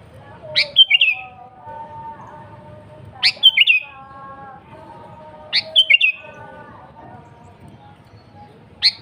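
Sooty-headed bulbul (kutilang) calling: a loud, sharp phrase that sweeps up and drops back, repeated about every two and a half seconds, four times, the last near the end. Softer, lower warbling notes run between the phrases.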